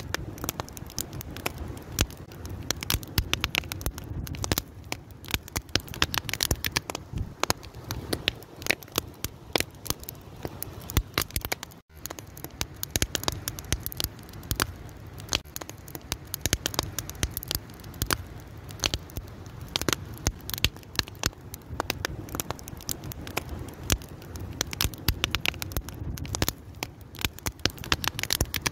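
Wood fire crackling, with many sharp, irregular pops and snaps over a steady low rumble of the burning. The sound cuts out for an instant about twelve seconds in.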